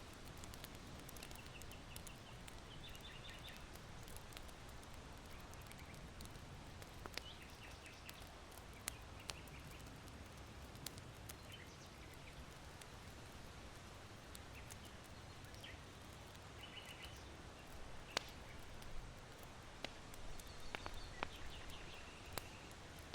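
Faint ambience of an irori hearth's charcoal fire giving scattered sharp pops, with small birds chirping in short bursts now and then. Underneath is a steady low rustle of wind in bamboo.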